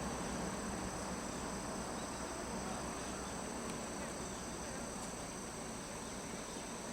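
Insects chirring steadily in high, continuous tones over a steady low rumble.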